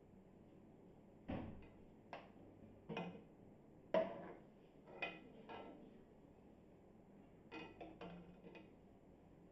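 Serving spoon and dishes clinking as curry is served out: a series of sharp knocks with short ringing, about nine in all, the loudest about four seconds in.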